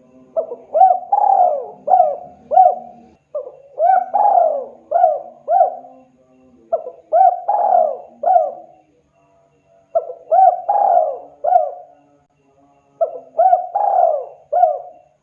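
Spotted dove (tekukur) cooing: five repeated phrases of several rising-and-falling coos each, one phrase about every three seconds with short pauses between.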